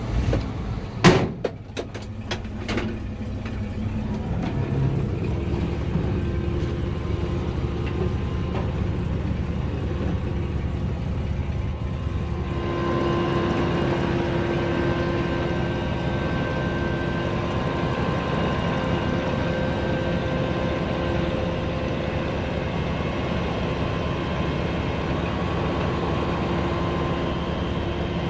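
Heavy truck engine running steadily, with several sharp knocks in the first three seconds. The sound grows fuller about twelve seconds in, with a few steady tones.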